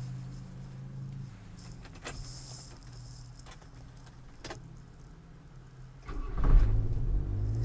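Keys jingling and clicking as the ignition key is found and fitted, then about six seconds in the Subaru Sambar's EN07 four-cylinder engine starts from cold and settles into a steady idle.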